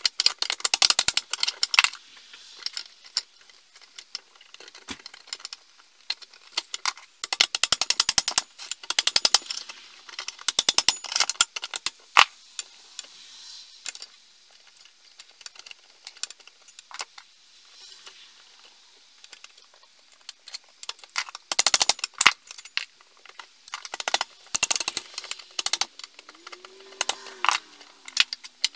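Bursts of rapid metallic clicking and rattling, as of small metal parts or tools being handled during workshop work, with quieter gaps between the bursts and a short squeak near the end.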